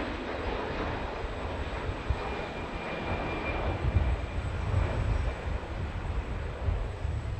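Jet airliner's engines running as the aircraft moves near the runway, a broad rush with a faint high whine for a couple of seconds. Gusty low buffeting from wind on the microphone runs underneath.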